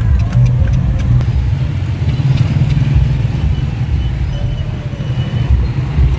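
Steady low rumble of a horse-drawn kalesa rolling along a city street, with a few sharp clicks in the first second or so.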